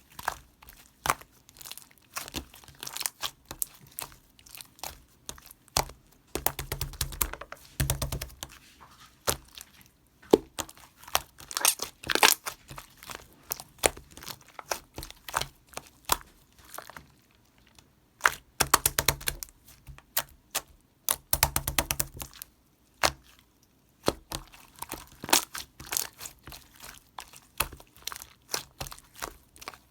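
Slime being squeezed, stretched and poked by hand: a constant stream of sharp crackling and popping clicks, thickening into dense runs of crackling about six, eighteen and twenty-one seconds in.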